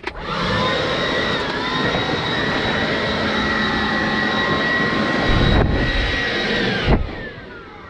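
Handheld blower switched on, its fan whine rising quickly to a loud, steady rush of air; about 7 seconds in it is switched off and the whine falls away as the fan winds down.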